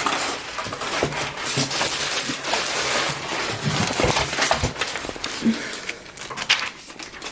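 Handling noise at a sewing machine: rustling with scattered light clicks and knocks as parts of the machine are handled.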